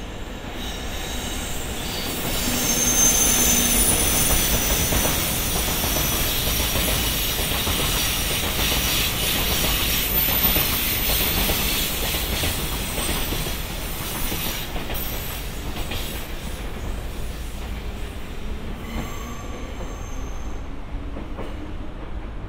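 Freight train of tank wagons hauled by an electric locomotive rolling past: a heavy rumble of wheels on rails with clacking over the rail joints and high-pitched wheel squeal at times. Loudest a few seconds in as the locomotive passes, then easing off as the train rolls away.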